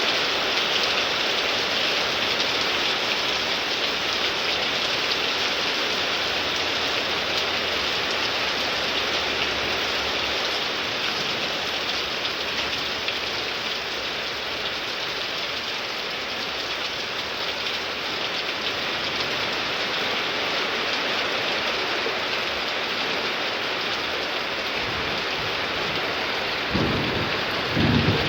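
Heavy rain pouring down steadily in a thunderstorm downpour, with a low rumble of thunder rising near the end.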